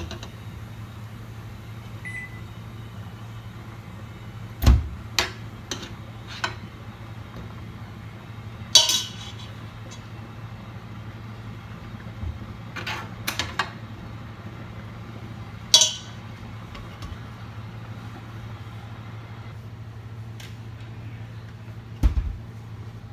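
Cookware clinking and knocking now and then, about ten sharp strikes, some ringing briefly, over a steady low hum of a kitchen appliance.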